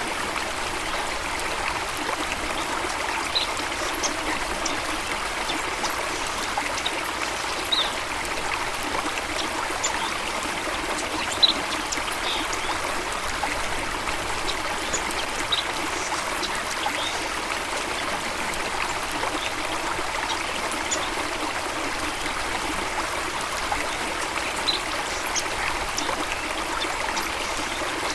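Stream water flowing and trickling steadily, with short high-pitched sounds scattered through it now and then.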